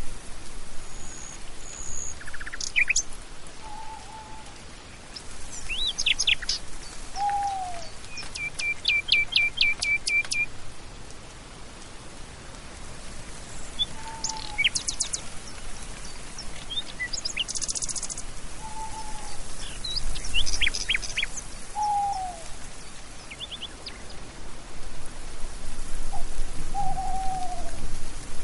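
Birds calling over a steady hiss: scattered high chirps and whistles, a quick run of evenly spaced notes partway through, and a short low falling call repeated about six times, every few seconds.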